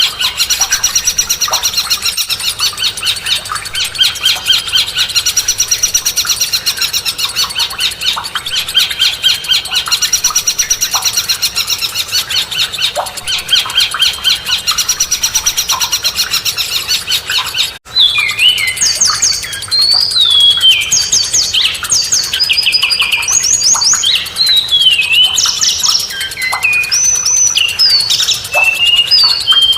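Caged songbirds singing loudly: a fast, unbroken chatter of repeated high chirps, then an abrupt cut about 18 seconds in to a different bird giving varied, sharply sweeping whistled notes.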